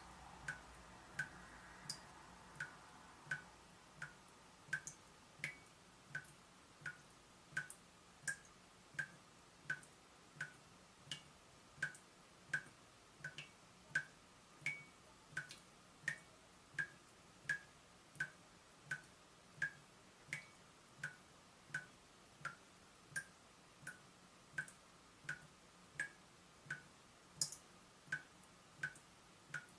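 Water dripping from a leaking tap: a steady run of single drops, about three every two seconds, each a short plink.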